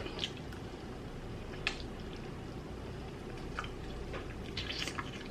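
Someone eating a chicken wing close to the microphone: a few short, wet mouth clicks and smacks of chewing scattered over a steady low hum.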